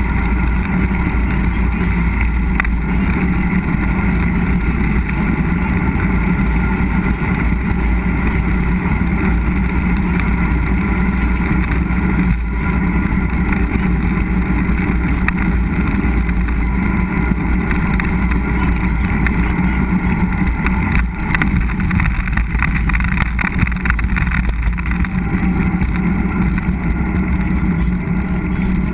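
Mountain bike ride heard through a helmet- or bike-mounted GoPro: steady rushing wind on the microphone with the rumble of tyres and frame over the trail.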